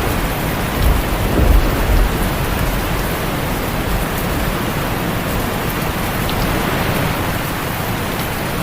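Heavy rain falling steadily on a tin roof. A low rumble of thunder runs through the first couple of seconds and fades away.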